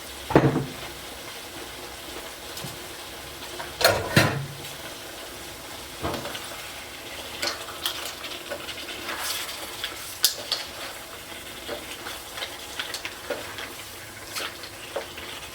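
Food frying in hot oil in a pan, a steady sizzle. Two loud knocks of a utensil or pot come about half a second and about four seconds in, followed by scattered light clicks of stirring.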